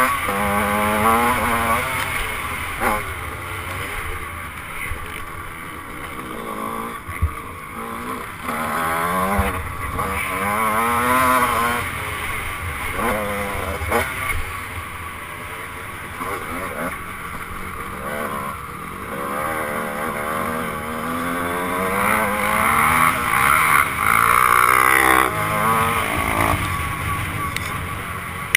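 1996 Honda CR125's 125cc two-stroke single-cylinder engine revving hard around a motocross track. Its pitch climbs and drops back again and again as the rider accelerates, shifts and rolls off, with wind and riding noise underneath.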